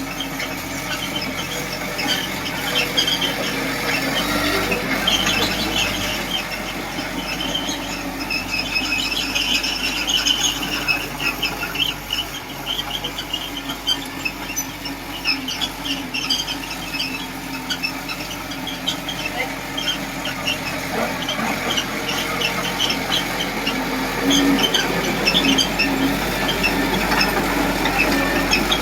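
Small Komatsu D20P crawler bulldozer on the move, its steel tracks squealing and squeaking many times a second over the steady running of its diesel engine.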